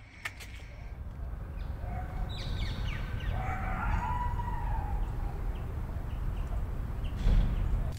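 An animal call, likely a bird: one drawn-out call lasting about two and a half seconds, starting about two seconds in, over a steady low rumble, with a louder low bump near the end.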